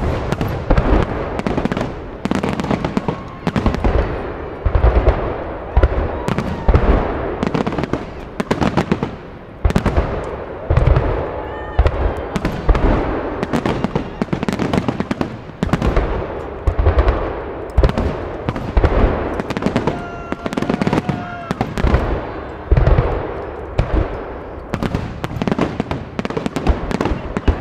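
Aerial firework shells bursting in quick succession: a continuous run of loud bangs, several a second, with crackling between them.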